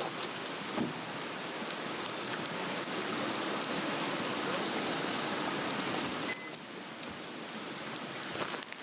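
Swedish torch, a split cedar log, burning with a steady rushing hiss and scattered crackles and pops. The rush swells and then drops off suddenly about six seconds in.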